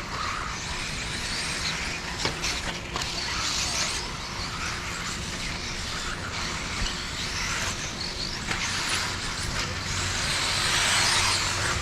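Radio-controlled off-road cars racing on a dirt track: a steady hiss of motors and tyres on dirt with a few short clicks, swelling near the end as cars pass close.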